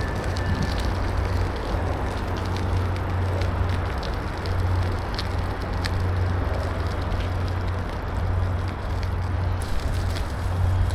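Steady wind rumble on the microphone while riding a bicycle, with scattered light clicks and ticks.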